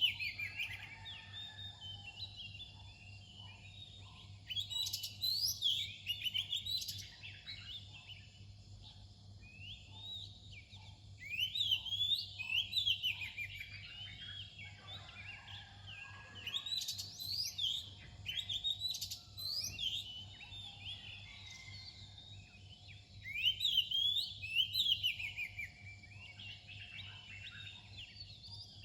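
Oriental magpie-robin singing: bursts of quick, varied whistled notes that sweep up and down, coming every several seconds with quieter notes between them, over a faint steady low hum.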